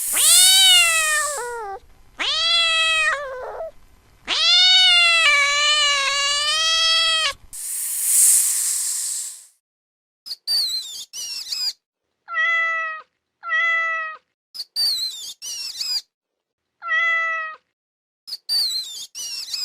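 Domestic cat meowing: three long, drawn-out meows with wavering pitch, then a series of short meows in quick succession. Two loud hissing bursts come at the start and about eight seconds in.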